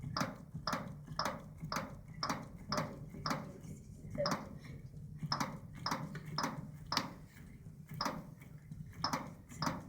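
Chest compressions on a CPR training manikin: a rhythmic click with each push, about two a second, with a brief break a little before the middle.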